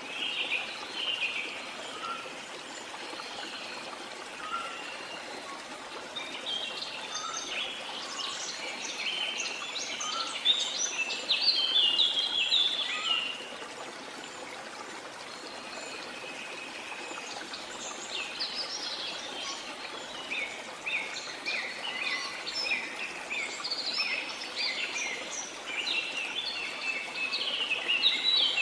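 Rainforest ambience: many birds chirping and twittering over a steady rush of flowing water. The bird chatter thickens into two busy spells, one from about a quarter of the way in to the middle and another over the last third.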